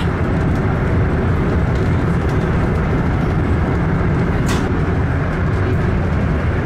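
Steady rumble of a high-speed passenger train running at speed through a long rail tunnel, heard inside the carriage. A single brief click sounds about four and a half seconds in.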